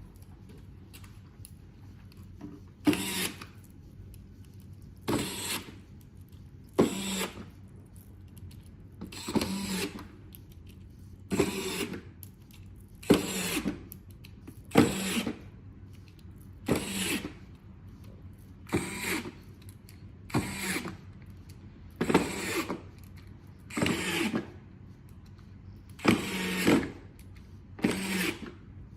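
A small mechanism working in short bursts, about one every two seconds, each starting with a sharp click and running for under a second.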